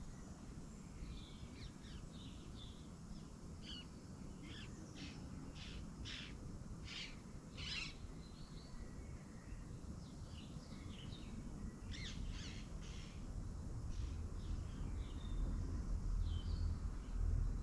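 Small birds calling in short, high chirps, in bursts, over a low background rumble that gets louder near the end.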